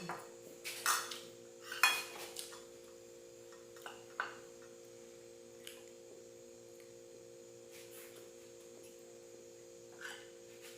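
A spoon clinking and scraping on a plate or dish while cake is eaten, a few sharp taps in the first couple of seconds, then single ones about four and ten seconds in, over a steady low electrical hum.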